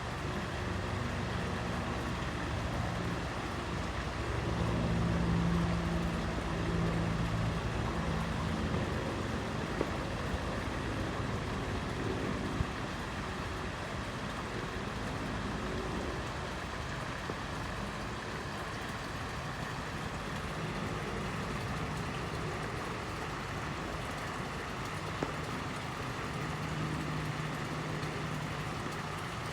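Fountain water splashing steadily, with a low hum rising and fading twice.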